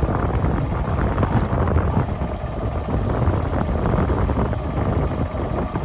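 Wind buffeting the microphone, a steady rumbling noise that gusts up and down.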